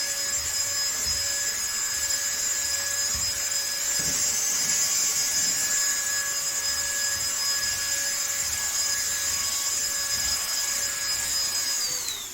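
Cordless stick vacuum cleaner running steadily, a high whine over an airy rush of suction. Near the end it is switched off and the whine falls in pitch as the motor spins down.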